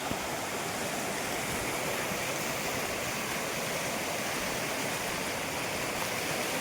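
Steady hiss of water, with no change in level.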